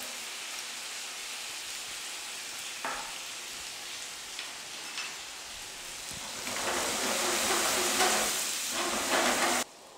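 Potato cubes frying in oil in a pan, a steady sizzle. About six and a half seconds in they are stirred with a wooden spatula and the sizzle grows louder, then it cuts off abruptly near the end.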